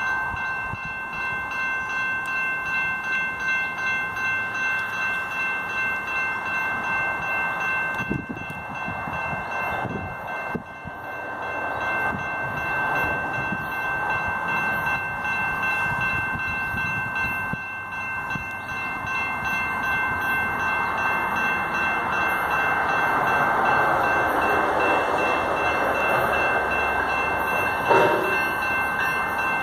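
MBTA Greenbush commuter train approaching the station, its rumble growing louder over the last ten seconds. A steady high ringing tone runs under it throughout.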